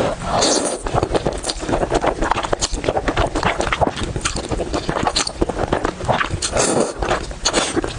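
Close-up eating sounds: rapid chewing and crunching, with many short wet clicks and a few louder noisy bursts about half a second in and again near the end.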